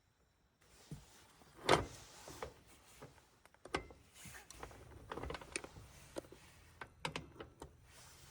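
Irregular knocks and clicks after a moment of near silence, the loudest about a second and a half in.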